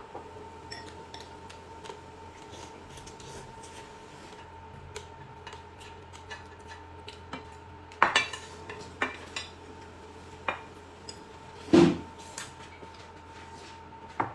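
Dishes and eating utensils clinking and knocking at a meal: scattered light clicks, with louder clatters about eight seconds in and again near twelve seconds.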